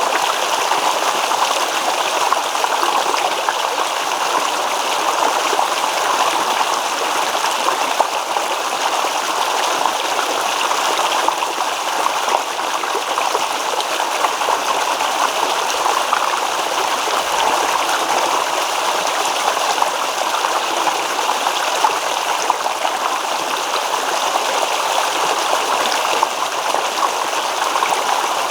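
Small stream babbling over stones: steady rushing and trickling water without a break.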